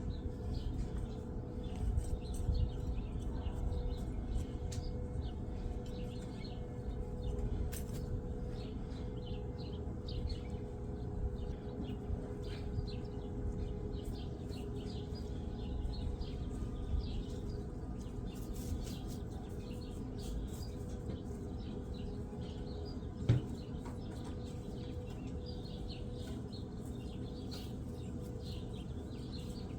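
Small birds chirping and twittering on and off over a steady low background hum, with a single sharp click about three quarters of the way through.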